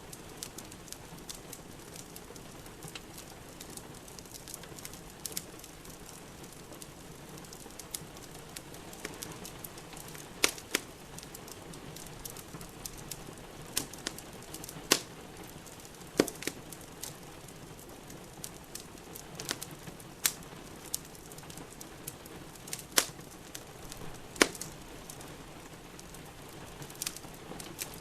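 Wood fire in a fireplace crackling, with irregular sharp pops and a handful of louder snaps, over a steady hiss of falling rain.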